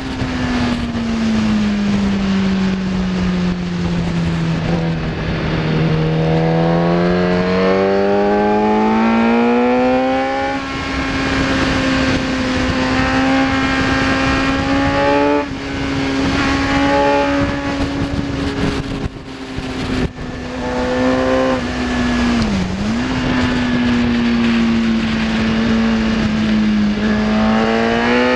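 Kawasaki ZX-10R's inline-four engine at speed on track, with wind rush. Its note drops over the first several seconds, climbs, then holds high for about twelve seconds with a brief sharp dip, sags a little and rises again near the end.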